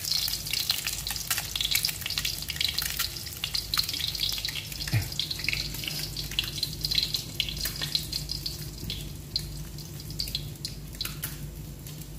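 Peeled hard-boiled eggs frying in a wok on a gas burner: a steady crackle of sharp spattering pops that thins out somewhat in the last few seconds, over a low steady hum.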